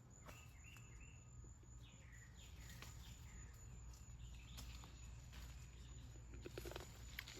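Faint outdoor birdsong: a string of short, falling chirps in the first few seconds, over a steady high-pitched tone. Near the end come a few rustling crackles.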